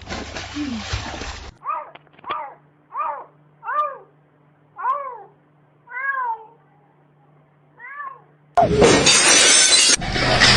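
A cat meowing over and over: about eight meows roughly a second apart, each rising then falling in pitch. A loud rushing noise is heard in the first second or so, and another, louder one takes over near the end.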